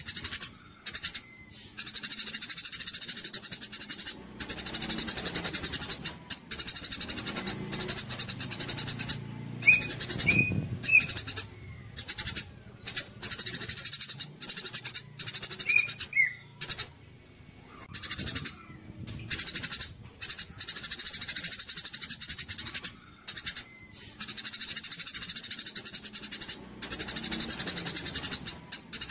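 Eurasian tree sparrow (burung gereja) song, as used in a masteran recording for tutoring competition birds. It gives long bursts of rapid, high, chattering chirps with short pauses between them, and a few short whistled notes around ten and sixteen seconds in.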